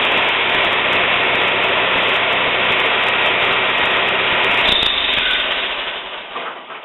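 A motor running steadily under a strong hiss, shifting slightly about two-thirds of the way through, then fading away near the end.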